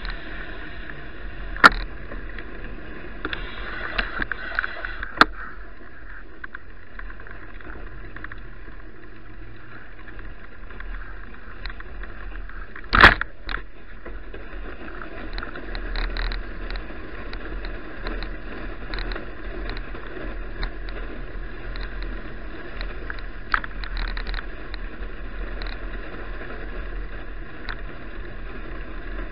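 Steady riding noise of a bicycle picked up by an action camera's built-in microphone, with a few sharp knocks, the loudest about halfway through.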